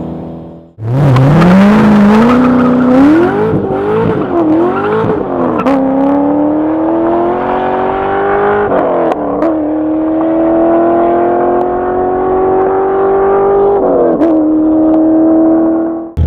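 Chevrolet Corvette V8 accelerating hard, its revs wavering up and down for the first few seconds, then climbing steadily through the gears with a drop in pitch at each upshift, three times.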